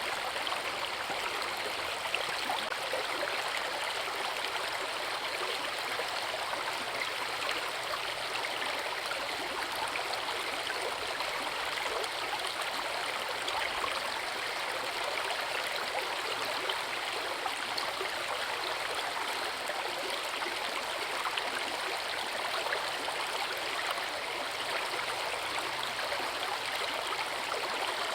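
Forest river and waterfall: water rushing and splashing over rocks in a steady, unbroken wash of sound.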